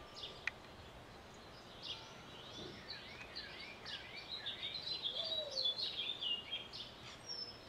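Birds chirping and singing over faint background noise: a quiet start, then from about two seconds in a dense run of short, falling chirps that thins out near the end.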